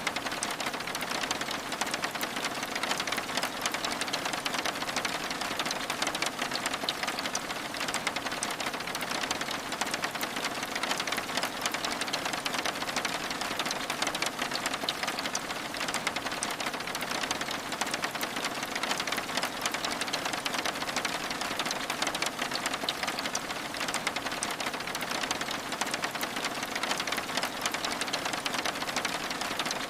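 Steady rain falling on window glass: an even hiss of rain with dense, fine ticks of individual drops, unchanging throughout.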